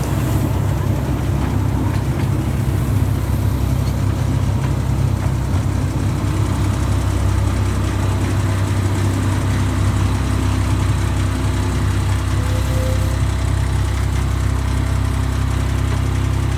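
Miniature railway locomotive's engine idling steadily.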